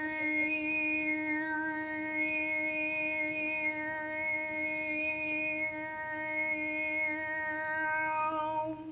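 A singing voice holding one long, steady note, the high note of a vocal range test. It cuts off sharply near the end.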